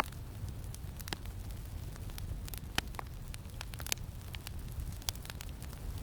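Campfire crackling, with irregular sharp pops and snaps, over a steady low wind rumble.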